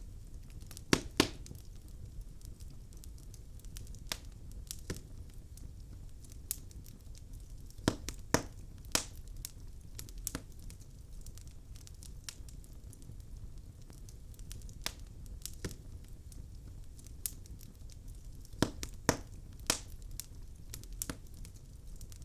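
Wood fire burning in a fireplace: sharp, irregular crackles and pops from the burning logs over a low steady rumble of the flames, with the loudest pops in small clusters about a second in, around eight seconds in, and near nineteen seconds in.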